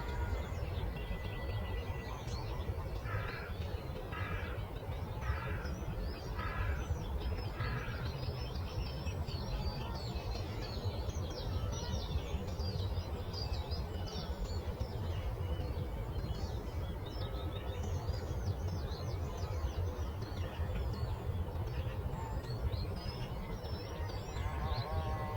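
A chorus of birds chirping and singing over a steady low rumble of breeze. Early on one bird gives five evenly spaced calls, about one a second.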